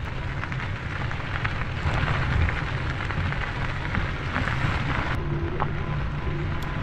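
Electric bike rolling along a dirt-and-gravel trail: steady crunching and crackling of the tyres on the ground, with rumbling wind noise on the microphone. A faint steady hum comes in near the end.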